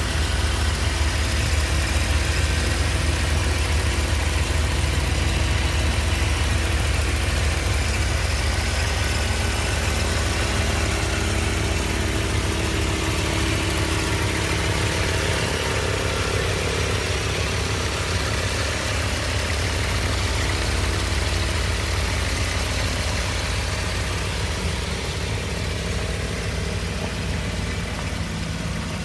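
1987 Chevrolet Camaro IROC-Z's V8 engine running steadily with a low rumble, easing off slightly near the end.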